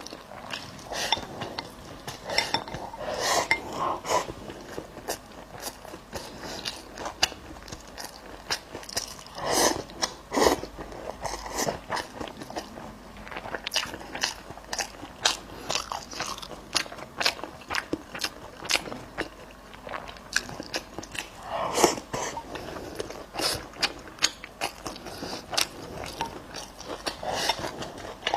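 A person chewing and biting food close to the microphone, with many sharp, irregular crunches and mouth clicks.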